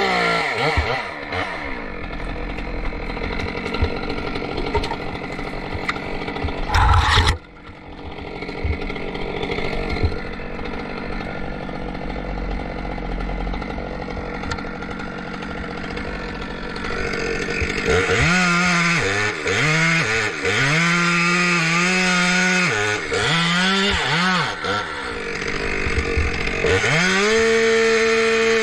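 Two-stroke chainsaw: it drops off full throttle to a lower running speed at the start and runs there for a long stretch, with a short loud rush of noise about seven seconds in. From about eighteen seconds it is revved up and down again and again, then held at full throttle near the end.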